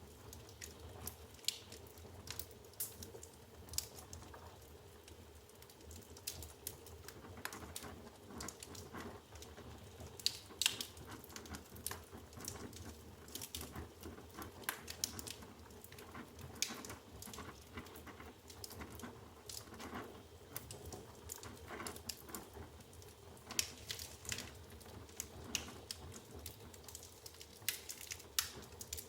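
Wood fire burning in a fireplace: logs crackling with irregular sharp pops over a steady low background sound of the flames.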